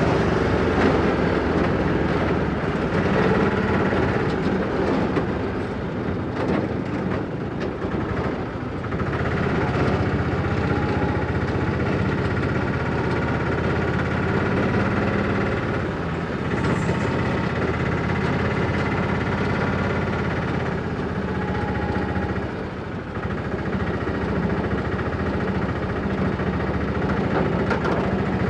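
Motorcycle engine running steadily, its note dipping briefly a few times.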